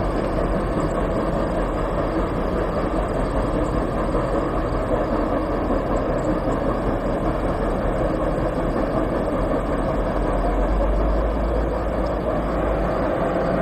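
Train crossing a bridge: a steady, continuous rumble.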